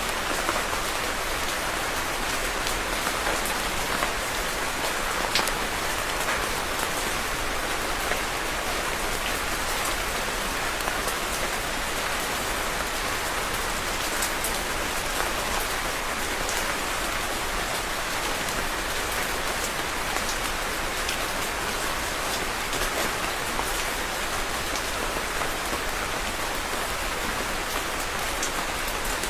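Steady rain falling and pattering on a surface, an even hiss with many small drop impacts scattered through it.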